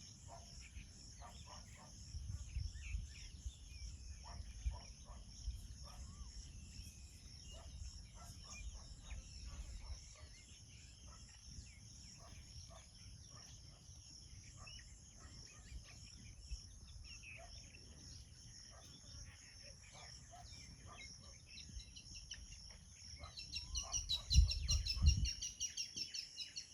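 Outdoor nature ambience: scattered bird chirps and calls over a steady, rapidly pulsing high-pitched insect-like chorus, with a low rumble underneath. Near the end the pulsing grows louder and there are a couple of low thumps.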